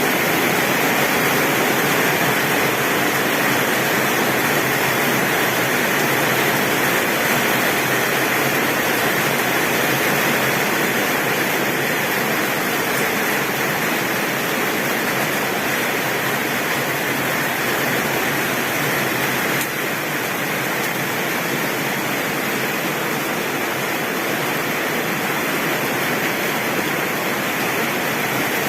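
Heavy rain falling steadily on a tin roof, a dense, even hiss with no thunder.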